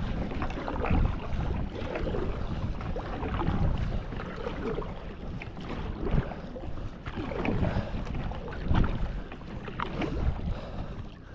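Kayak paddle strokes splashing in the water, irregular, every second or two, as the boat is paddled against a strong current, with wind buffeting the microphone.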